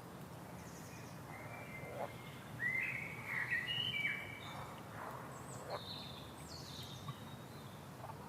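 Birds chirping faintly: a run of short chirps in the middle, then a few higher notes, over a low steady background hiss.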